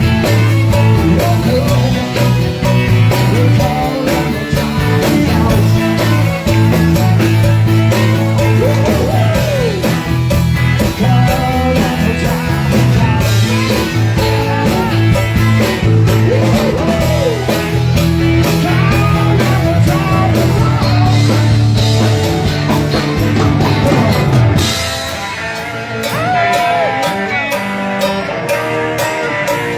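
Live rock music: electric guitar with bass and drums, with sliding melodic lines. About 25 seconds in the bass and drums drop out, leaving guitar playing on its own.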